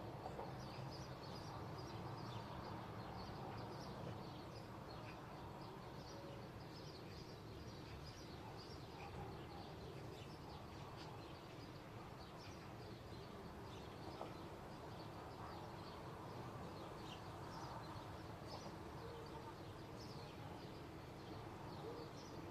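Small birds chirping continuously, many short high chirps overlapping, over a faint steady low rumble of background noise.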